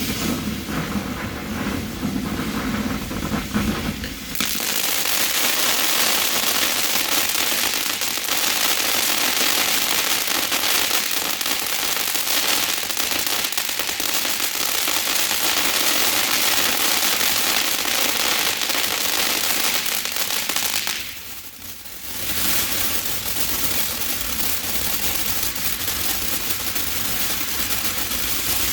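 Winda Snow Cone 500-gram firework fountain spraying with a dense, continuous hiss and crackle. It builds up sharply about four seconds in, drops away for about a second after some twenty seconds, then carries on steadily.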